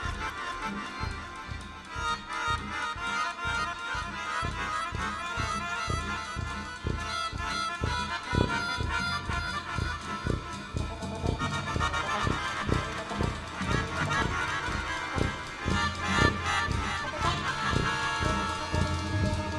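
Instrumental jazz from a small brass ensemble: trumpets, baritone saxophone and tuba with keyboards and drums, the drums keeping a regular beat throughout. The band grows fuller about halfway through.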